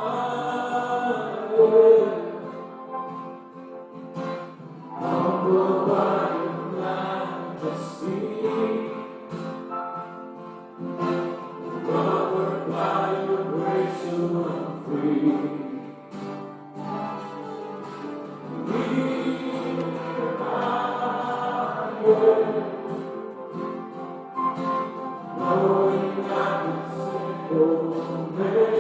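Church congregation singing a hymn with keyboard accompaniment, in sung phrases a few seconds long.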